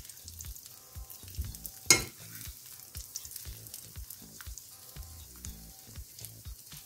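Parmesan-breadcrumbed chicken breasts frying in olive oil in a nonstick pan, a steady sizzle, with one sharp clink of a metal fork against the pan about two seconds in as the pieces are turned.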